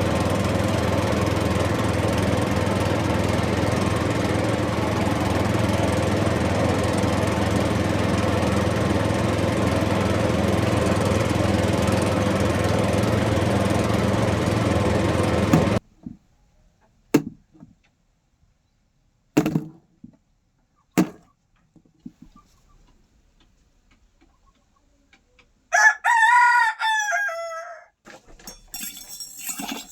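A small motor runs with a steady hum for about fifteen seconds, then cuts off suddenly. A few short knocks follow, then a rooster crows once near the end, followed by light clinking.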